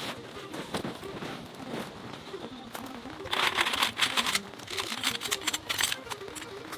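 Rustling and crackling handling noise made of many small clicks, with a louder burst of crinkling about three seconds in.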